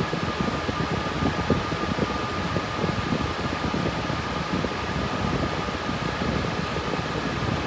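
Cooling fans of a GPU mining rig with RTX 3060 Ti cards, running steadily under mining load: a constant whoosh of air with a thin steady whine above it and an uneven, fluttering low rumble.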